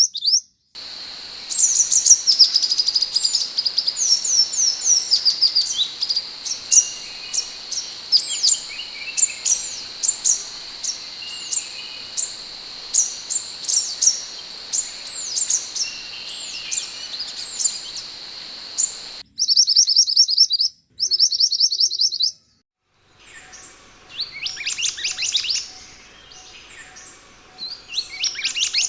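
Sepah hutan (minivet) calling: many short, high, thin downslurred chirps, some run together in rapid series. The recording is spliced: it cuts out abruptly a few times, and a steady high whine runs under the first two-thirds.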